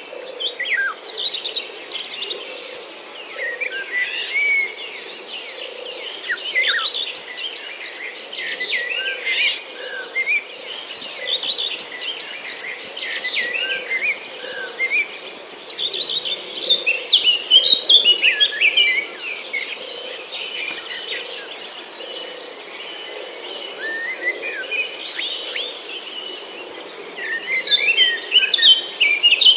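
Many birds chirping and trilling over a steady, high insect drone.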